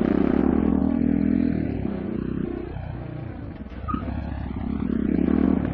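Vehicle engine and road noise picked up by a dash cam, a steady hum that fades about halfway through and then builds again.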